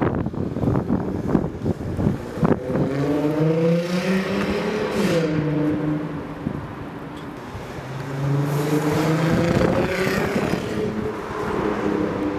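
VW Golf R32's 3.2-litre VR6 through a 3-inch APR RSC catback exhaust, accelerating away: the exhaust note climbs in pitch, drops sharply at a gear change about five seconds in, goes quieter for a couple of seconds, then climbs again around eight seconds.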